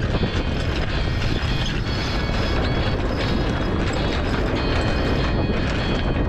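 Wind buffeting the microphone and water rushing past the hull of a sailboat under way in a strong breeze, with scattered creaks and clicks from the boat's gear.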